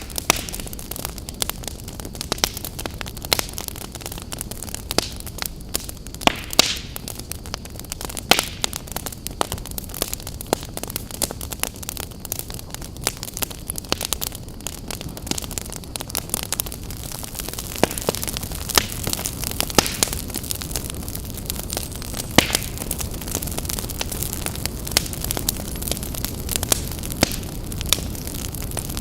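Wood campfire burning, with a steady low rush of flames and irregular sharp crackles and pops throughout, a few of them louder.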